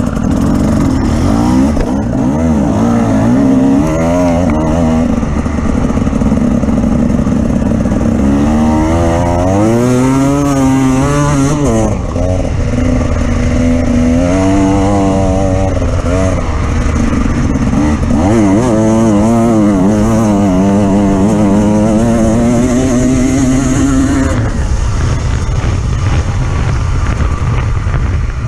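Off-road vehicle's engine running under load, its pitch rising and falling again and again as the throttle is worked. Near the end it settles into a lower, steadier running.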